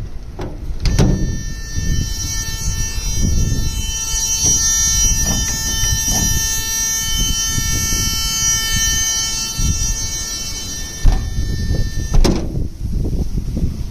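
A school bus door alarm buzzer sounding continuously for about eleven seconds, starting just after a clunk and cutting off at a second clunk, as a door is opened and then shut. Wind rumble runs underneath.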